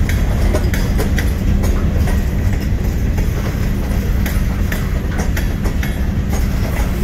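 Union Pacific freight train rolling past: a steady low rumble of wheels on rail, with irregular sharp clicks and brief squeaks from the wheels.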